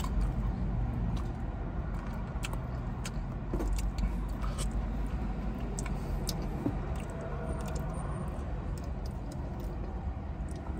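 Close-up eating sounds of chicken wings and stuffed pizza: wet chewing, lip smacks and finger licking heard as small scattered clicks, over a steady low hum inside the car.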